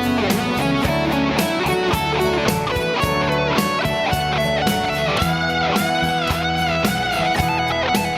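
Dhatarattha Custom DHL electric guitar played with heavy distortion, improvising a lead line; from about five seconds in, the notes bend and waver with vibrato.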